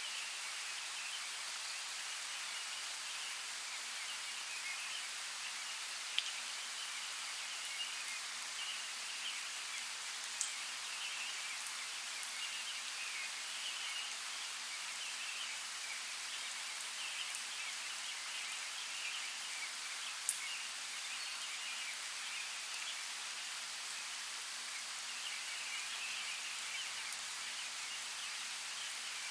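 Steady rain falling in a forest, a continuous hiss with a few louder single drops striking close by, three of them standing out.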